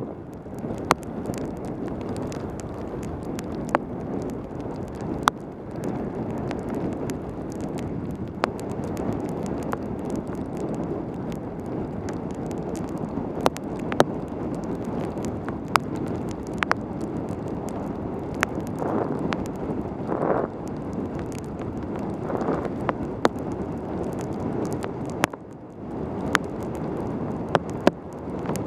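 Wind rushing over a helmet-mounted camera's microphone during a fast bicycle descent on a wet road, with the hiss of the tyres in the rain. Many sharp, irregular ticks cut through the rush, and it eases briefly a little before the end.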